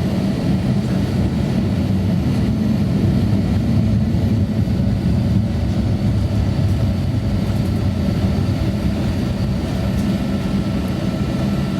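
Steady low rumble of cabin noise inside an Airbus A350-900 on the ground before takeoff, its engines and cabin air running evenly.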